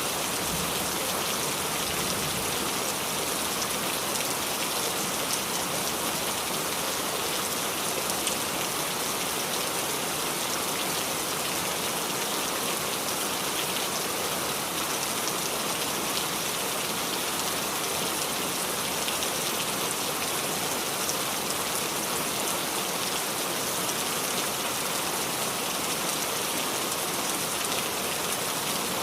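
Steady rain falling and dripping on the leaves of a small tree: an even patter of many drops.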